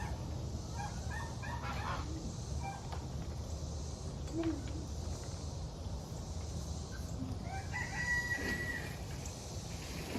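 A rooster crowing once, about eight seconds in, with scattered short bird chirps before it over a steady low background rumble.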